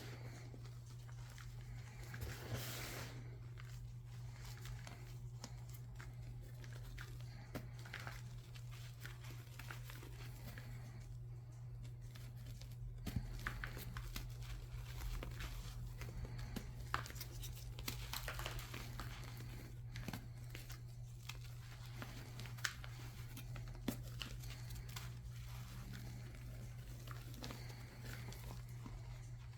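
Crunchy chalk reforms being crushed by hand: irregular crumbling and crackling, with sharper snaps here and there, over a steady low hum.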